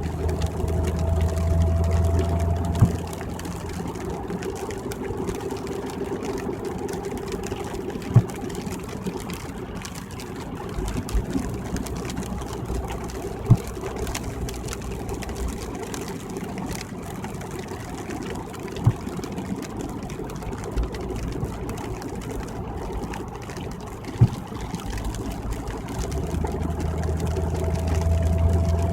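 Car cabin noise while driving on a wet highway: steady road and tyre rumble with the hiss of wet pavement, the low drone rising near the start and again near the end. A short sharp knock sounds four times, about every five seconds.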